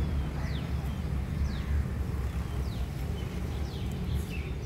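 A bird repeating short, high call notes that each fall quickly in pitch, about once a second, over a steady low rumble on the microphone.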